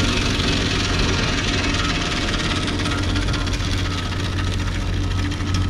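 Engine of a heavy farm machine running steadily at an even speed, with a strong low hum.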